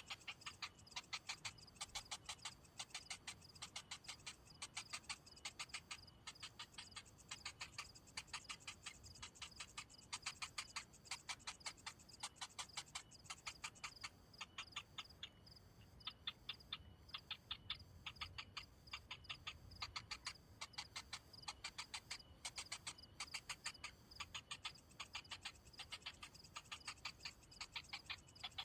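Pond heron nestlings begging with rapid dry ticking calls, in runs of several ticks a second with a short lull near the middle. A faint steady high tone runs behind them.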